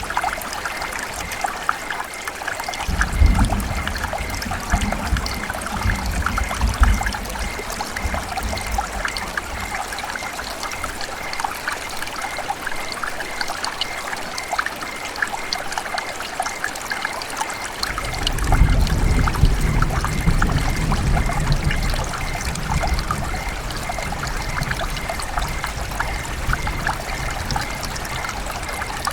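River water running and trickling, a steady babble of many small splashes. A low rumble comes in twice, once a few seconds in and again past the middle.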